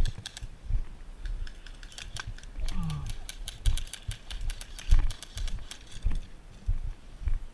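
Irregular clicks and knocks with low thumps throughout, at no steady rhythm. A man says a short "oh" about three seconds in.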